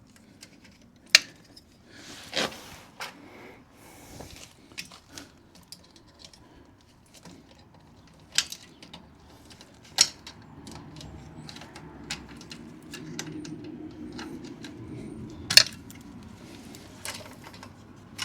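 Scattered metal clicks and clinks from exhaust springs, clip and hand tools being worked by hand, the sharpest about a second in, around ten seconds and near the end.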